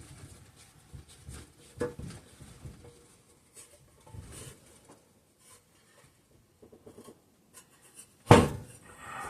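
Small parts and tools being handled: scattered light clicks and rubbing, with one loud knock about eight seconds in.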